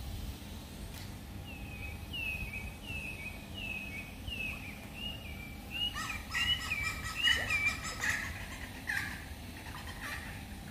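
A bird calling a repeated series of short chirping notes, about one every half second or so, then a louder, busier run of notes about six to eight seconds in, over steady low background noise.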